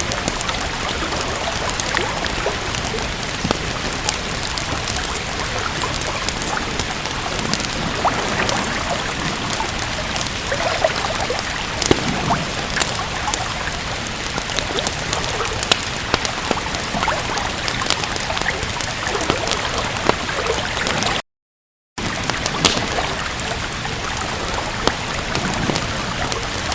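Steady rain with scattered sharp crackles of a wood fire mixed in. About three quarters of the way through, all sound cuts out completely for under a second, then resumes.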